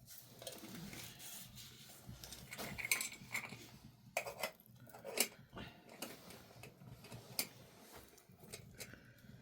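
Irregular light clinks and knocks of hard objects being handled, with a few sharper ones in the middle of the stretch.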